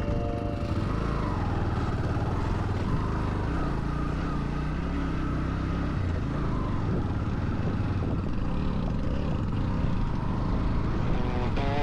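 Motorcycle engine running steadily while riding, a low rumble whose note shifts a little around the middle.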